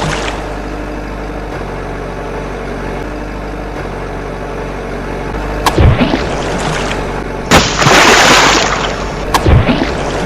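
Two sudden booms, one about six seconds in and one near the end, each with a sweep in pitch, and a loud rushing burst lasting over a second just before the second boom, over a steady low hum.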